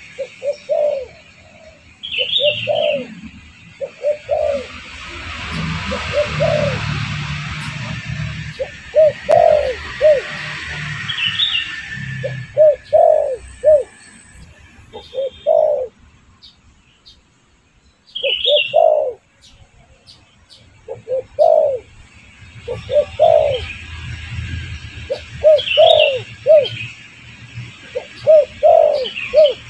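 Spotted doves (derkuku) cooing over and over: short phrases of two or three low coos every second or two, with a pause about halfway through. Higher bird chirps come in between.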